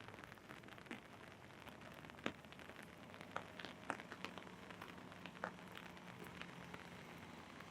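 Rain falling on an umbrella held overhead: a steady soft hiss with irregular sharp ticks of single heavier drops, two of them clearly louder a little after two seconds and near four seconds in.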